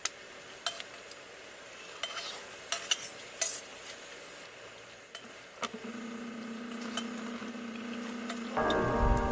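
Camp cooking: utensils clicking against a pot or pan over food sizzling, with a steady hum joining about halfway through. Background music comes in near the end.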